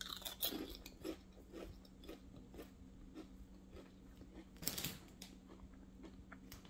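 A woman biting into a dill pickle jalapeño potato chip with a sharp crunch, then chewing it with soft crunches about twice a second that fade as the chip breaks down. One louder, brief noise comes a little after halfway.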